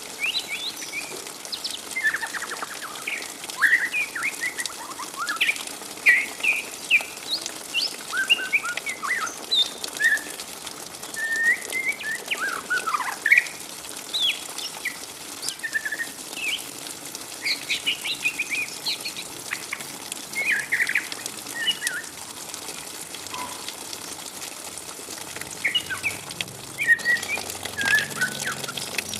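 Juvenile white-rumped shama (murai batu), still in spotted plumage, chattering (ngriwik): a rapid run of short twittering chirps that rise and fall in pitch, with a brief sparser stretch a little past the middle.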